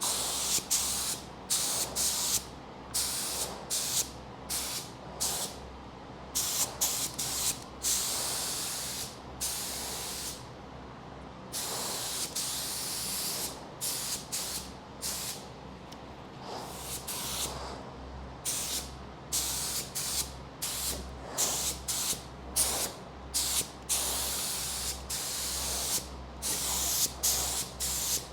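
Spray gun spraying epoxy primer: a hiss of air and atomised paint that starts and stops over and over, mostly in short bursts with a few longer passes, over a steady low hum.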